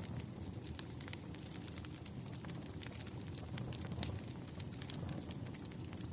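Wood fire crackling: frequent irregular pops and snaps of burning firewood over a steady low rushing noise.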